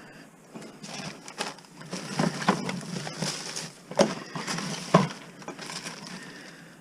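Household clutter being rummaged through and handled: rustling and clattering with irregular sharp knocks, the two loudest about four and five seconds in.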